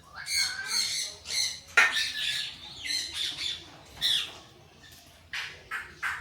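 A bird squawking, a string of short harsh calls every half second or so, with a sharp click just under two seconds in.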